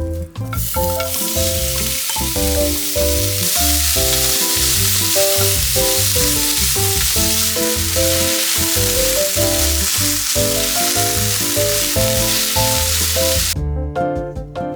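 Food frying in a hot pan: a steady sizzle that starts about half a second in and cuts off suddenly near the end, over background music.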